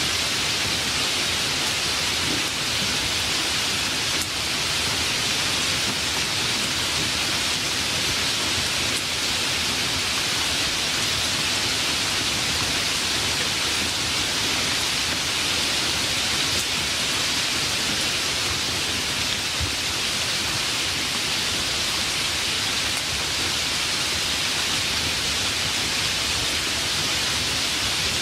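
Steady, heavy rain falling: an even hiss with no breaks or changes.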